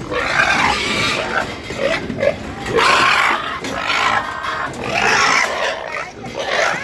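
Pigs squealing and grunting in a run of loud, harsh calls with short gaps between them.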